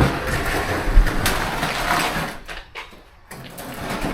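Clattering and scraping of metal garage door parts being handled, with a sharp knock about a second in.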